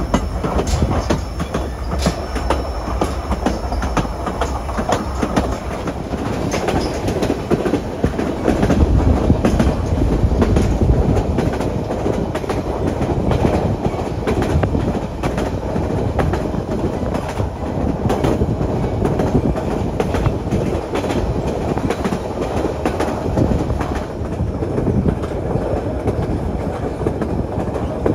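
Narrow-gauge passenger train rolling along the track: a steady low rumble with the wheels clicking irregularly over rail joints.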